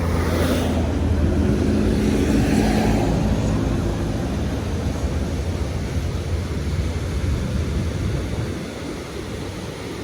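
Heavy road vehicle's engine running steadily with a low drone, easing off a little near the end.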